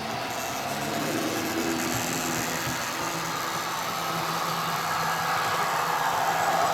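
Model train running on the layout's track, a steady mechanical hum that grows slowly louder.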